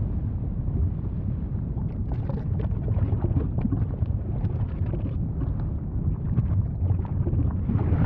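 Volcano's deep, steady rumble with many small crackles and pops from about two seconds in.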